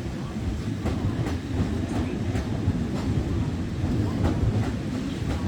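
Sydney passenger train running past a station platform: a steady low rumble with its wheels clicking over rail joints, roughly one or two clicks a second.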